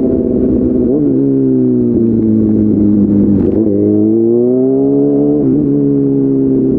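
Kawasaki ZX-6R 636's inline-four engine running through an SC Project slip-on exhaust. It gives a short blip about a second in, sags slowly, then climbs for about two seconds before the pitch drops sharply and settles.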